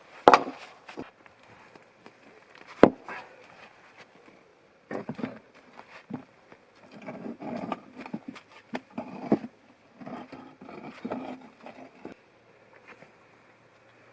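Footsteps of a person moving over the forest floor: crunching and rustling in uneven clusters, with two sharp twig snaps near the start.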